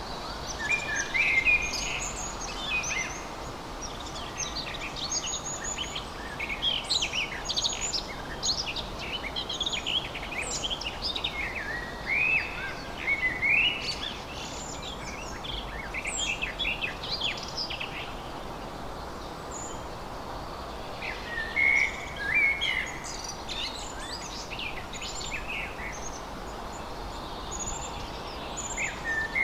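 Many songbirds chirping and singing at once, a dense chorus of quick high calls, busiest through the first half and again a little past the middle. A steady faint hiss lies underneath.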